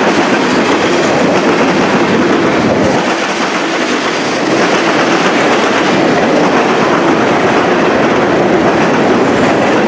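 Norfolk Southern manifest freight train rolling past at close range: a steady, loud noise of steel wheels running on the rails.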